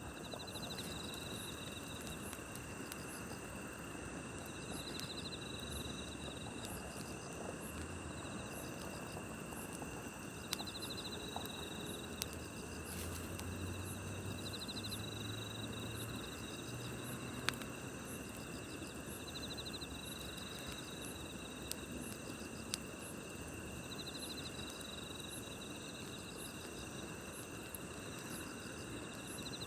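Crickets and other night insects chirring steadily, with a trill that recurs every four to five seconds. A few single sharp pops from a crackling campfire come through.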